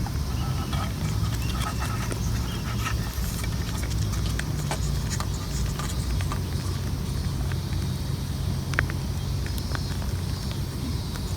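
Open wood campfire crackling, with scattered sharp pops, over a steady low rumble.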